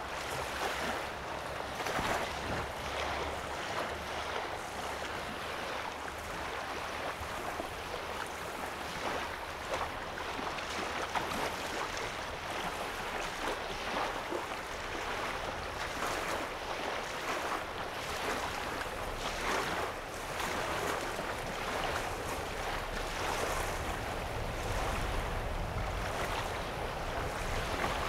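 Small lake waves lapping on the shoreline: a steady wash of water broken by many small splashes. A low rumble grows stronger in the last few seconds.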